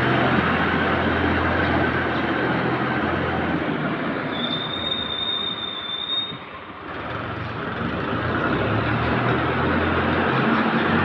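An engine-driven machine running steadily with a noisy scraping sound, and a single high squeal lasting about two seconds partway through; the sound drops away briefly just after the squeal, then builds again.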